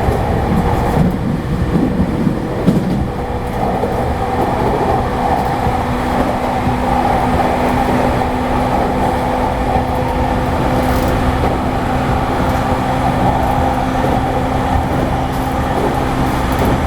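Inside a JR East E217 series electric train running along the line: a steady rumble of wheels on the track, with steady humming tones from the running gear, a lower one coming in about six seconds in.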